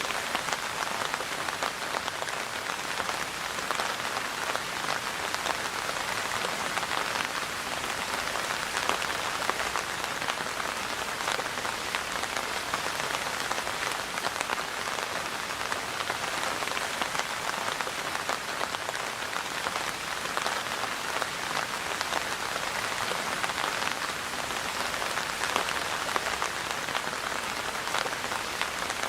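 Steady rain falling on a surface: an even hiss dotted with many small drop hits, holding the same level throughout.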